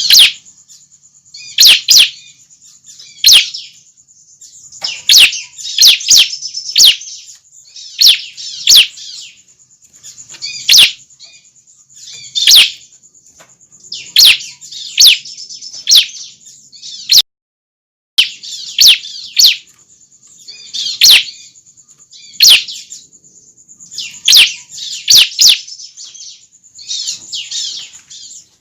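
Young bar-winged prinias (ciblek) calling: sharp, high chirps, often two or three close together, repeating every second or two. The sound drops out briefly about two-thirds of the way through.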